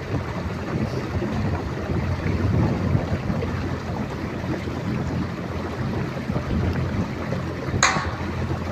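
Steady low engine hum of a moving vehicle with rushing wind noise, and one short sharp sound near the end.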